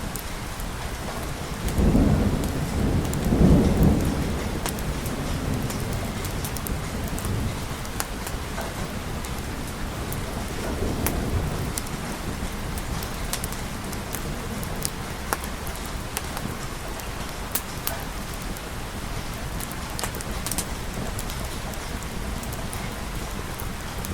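Steady rain falling, with a roll of thunder that swells about two seconds in and rumbles on for a few seconds, and a fainter rumble of thunder around the middle.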